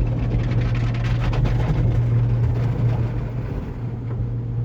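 Automatic tunnel car wash working over the car, heard from inside the cabin: a steady low hum of machinery under the rushing noise of water spraying on the body.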